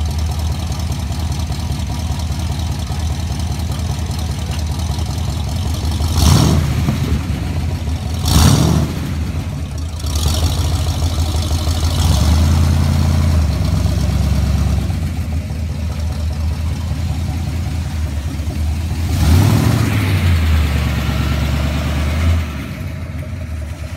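1976 Ford Bronco's engine running steadily with a low hum. It gives two short revs, then pulls harder twice as the truck drives off.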